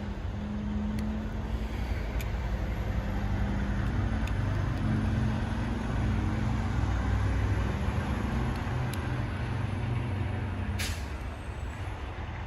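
Steady low mechanical rumble with a humming tone. About eleven seconds in, the hum stops with a short, sharp burst of hiss.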